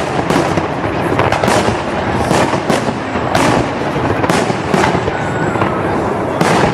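Fireworks salute: aerial shells bursting in a dense run of loud bangs, several a second, over a continuous haze of rumbling and crackle.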